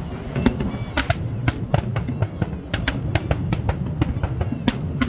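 Fireworks going off: an irregular run of sharp bangs and crackles, several a second, over a steady low rumble.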